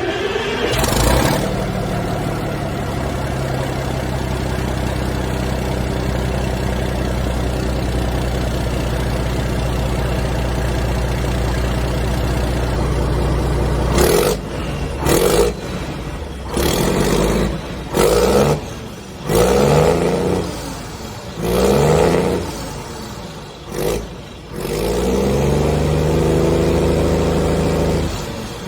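Cummins turbo-diesel in a Foden truck running through a freshly fitted straight-pipe exhaust: just started, it flares briefly, then settles into a steady idle. About halfway it is revved in a run of short throttle blips, with a longer rev near the end.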